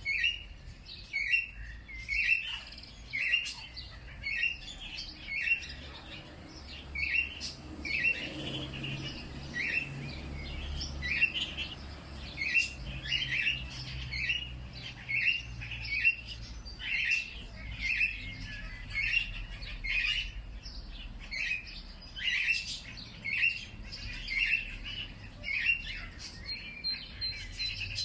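Birds calling, a short chirp repeated a little more than once a second in a steady series, over a faint low background rumble.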